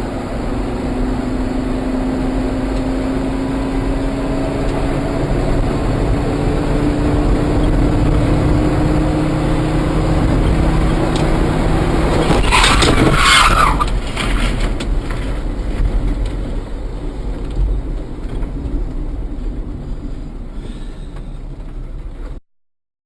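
A car's engine and road noise heard from inside the vehicle, the engine note rising steadily as it speeds up. About halfway through comes a loud harsh burst lasting a second or so, then the road noise carries on until it cuts off suddenly.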